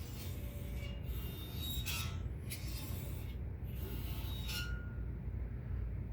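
Brand-new RØDE PSA1 boom arm being moved, giving a series of short scrapes with brief high squeaks: its joints rubbing metal to metal and the spring inside squeaking. It is the sign of a defective unit.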